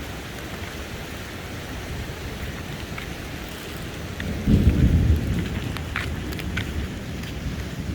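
Steady rain falling, with a loud low rumble about four and a half seconds in and a few sharp taps shortly after.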